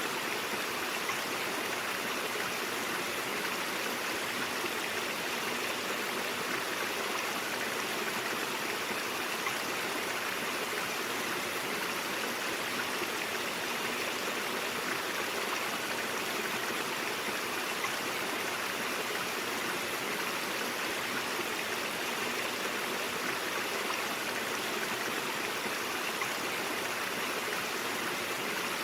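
A brook flowing steadily, with an even, unbroken rushing of water.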